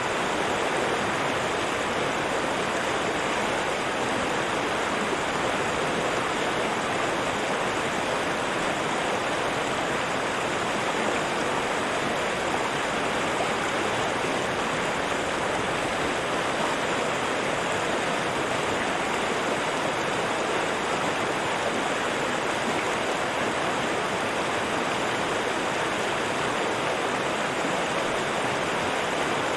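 A river or stream rushing steadily over rocks, an even, unbroken water noise.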